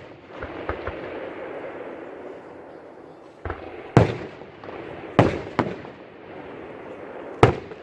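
Fireworks shells bursting in a string of sharp bangs, about five loud ones with a couple of fainter pops near the start, the loudest about four seconds in.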